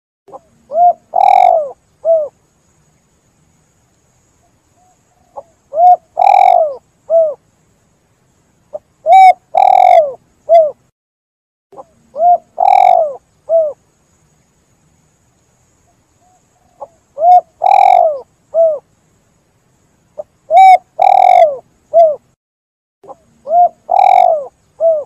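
Spotted dove (tekukur) cooing: about seven phrases of three or four low, arching coo notes, each phrase followed by a pause of a couple of seconds.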